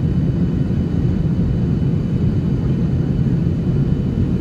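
Steady low rumble of a Boeing 737's engines and rushing air, heard from inside the passenger cabin in flight, with a faint thin whine above it.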